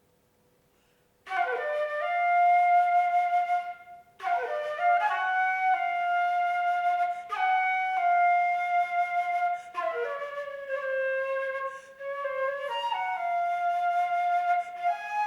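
Solo flute playing after a silence of about a second: a series of phrases, each opening with a sharp, quick attack and settling onto a held note, with brief breaths between them.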